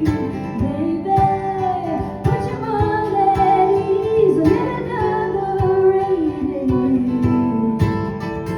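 Live band performance: a woman singing a melody over guitar, with a steady beat.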